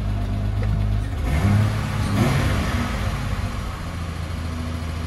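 1987 BMW E30 325is's 2.5-litre straight-six running, with a brief rise in revs about one and a half to two and a half seconds in before it settles back to idle. The engine is not running quite right.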